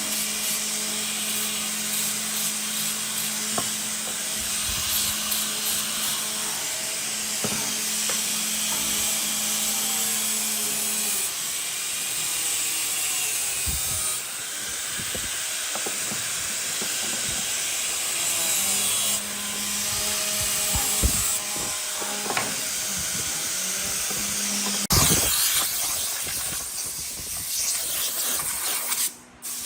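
Power tool working wood: a steady hiss with a motor hum underneath that drops out for a while and comes back, with scattered knocks. It cuts off sharply near the end.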